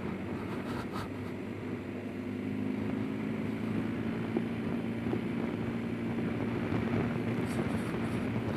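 Motorcycle engine running steadily at low road speed, with a constant rush of wind and road noise and a few faint clicks near the start and near the end.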